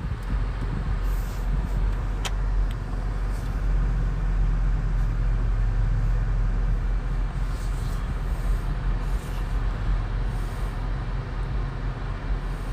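A car engine running steadily at low revs, a continuous low rumble with a steady hum that holds through the middle. A short sharp click comes about two seconds in.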